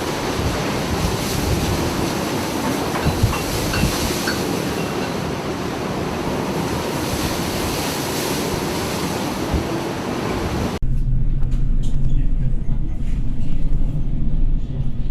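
Loud, steady rushing of wind and breaking sea waves, which cuts off abruptly about eleven seconds in and gives way to a steady low engine-like hum.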